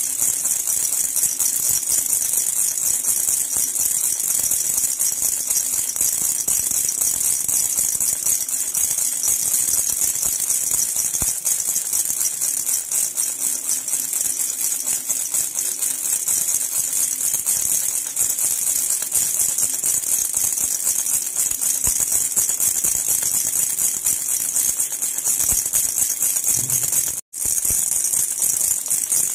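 Silver jhunjhuna (baby rattle) shaken continuously, a dense, steady, high metallic jingling. It breaks off for an instant near the end and starts again.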